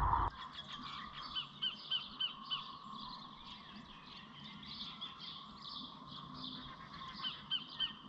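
A bird calling in quick runs of short, repeated chirps, about four a second: one run a little over a second in, another near the end.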